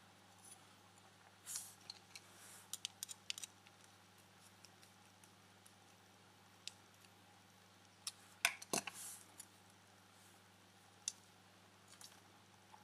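Small plastic parts and screws being handled and fitted by hand: scattered clicks, ticks and brief scrapes in two clusters, one starting about a second and a half in and a louder one around eight seconds in, over a faint steady hum.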